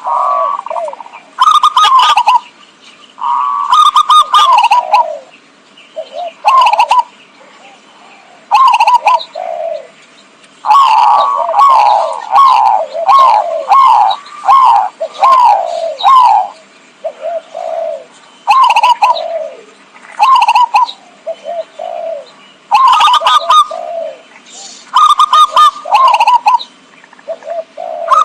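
Zebra dove (perkutut) cooing in repeated bursts of rapid, short, falling notes with brief pauses between them. A longer run of notes comes about eleven seconds in.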